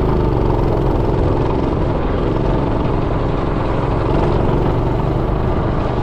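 Predator 212 single-cylinder four-stroke engine running steadily on a minibike as it is ridden.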